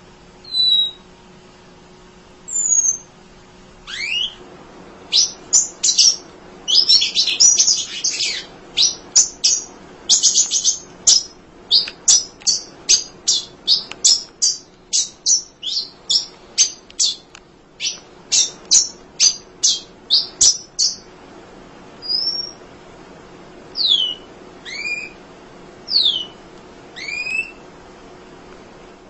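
Emprit (munia) chirping: a few single high calls, then a long fast run of sharp chirps, several a second, and at the end a few widely spaced calls that fall in pitch.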